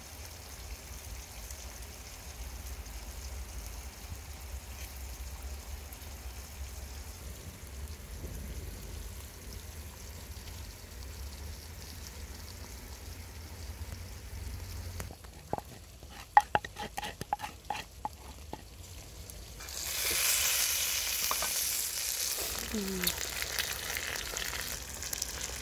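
A low steady rumble at first, then several metal clinks and knocks as the metal lid comes off the pot. From about twenty seconds in, a loud sizzle as snakehead murrel and jackfruit fry in the pot and are stirred with a wooden spatula.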